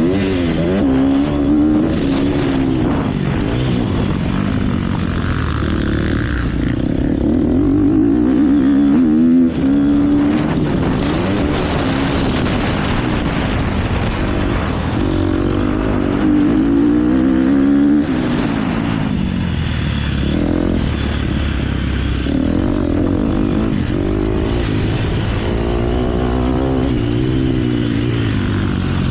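KTM motocross bike's engine under race load, revving up and falling back again and again as it climbs through the gears and backs off.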